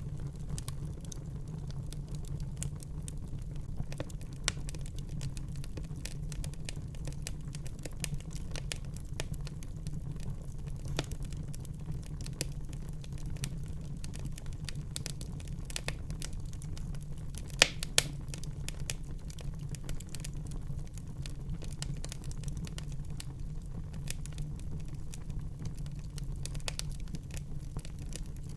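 Wood fire burning in a fireplace: a steady low rumble of the flames with frequent small crackles and pops, one sharper pop about two-thirds of the way through.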